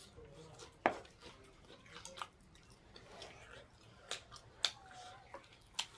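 A person chewing and biting into a cooked chicken leg, with sharp mouth clicks every second or so; the loudest comes about a second in.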